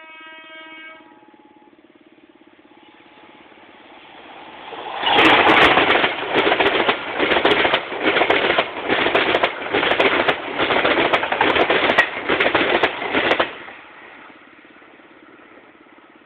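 A passenger train passes close by: a loud rush of carriages with a steady clatter of wheels over the rail joints, about one beat a second, building from about four seconds in and cutting off sharply near the end. A short, faint train-horn note sounds at the very start.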